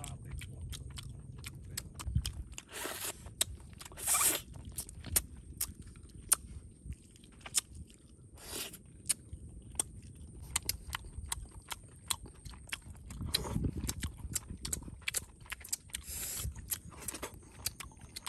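Close-up eating sounds of people chewing grilled fish: lip-smacking and many small sharp mouth clicks, with a few brief rushing noises among them.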